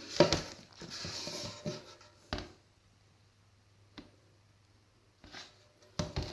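Handling of loose car parts: a rustle with knocks in the first two seconds, then separate sharp knocks and clicks as parts are picked up and set down, with quiet pauses between.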